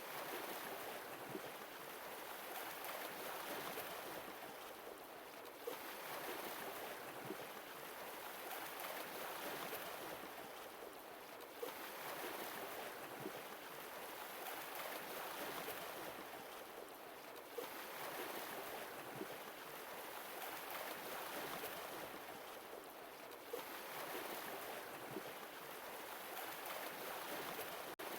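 Sea waves washing in and drawing back in slow, even surges about every six seconds. Each surge opens with a brief splash.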